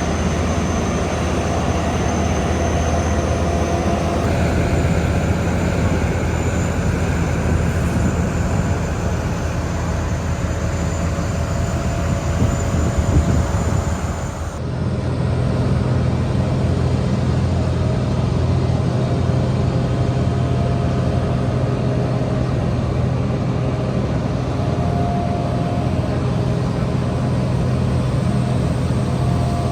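Jet aircraft engines running: a steady noise with a high whine. The sound changes abruptly about halfway through, to a lower, steadier hum.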